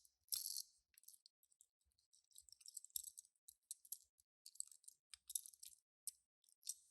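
Faint, scattered light clicks and small rattles from a die-cast toy car and its packaging being handled.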